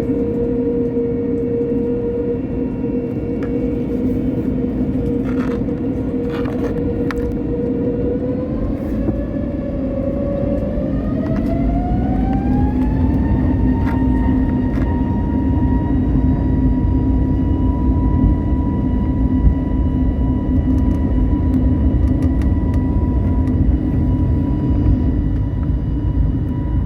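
Airbus jet engines heard from inside the cabin, spooling up. Their whine rises in pitch from about 9 to 13 seconds in, then holds steady, while a deep rumble grows beneath it. A few brief rattles or clicks come around 5 to 7 seconds in.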